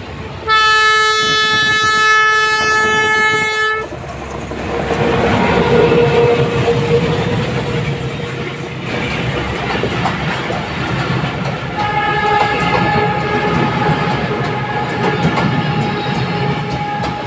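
A train horn sounds one steady blast lasting about three seconds, then the train runs past close by with the rush and clickety-clack of its wheels on the rails. A second, fainter steady horn tone starts about twelve seconds in and carries on under the passing noise.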